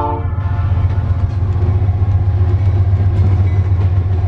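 Diesel locomotives running past with a heavy, steady engine rumble. The last moment of a multi-note locomotive horn chord cuts off right at the start.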